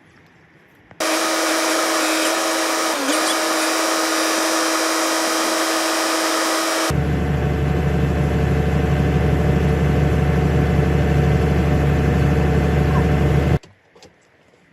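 Power tool running steadily, in two stretches: a motor whine with a steady tone, then a suddenly different, deeper steady running sound. It starts abruptly about a second in and cuts off shortly before the end.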